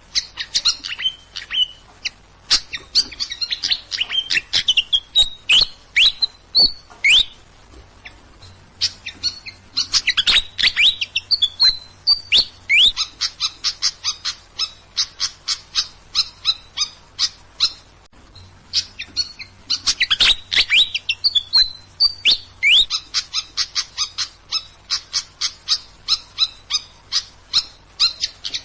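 Songbird song: rapid runs of sharp chirps and trills, with a similar phrase coming round about every ten seconds.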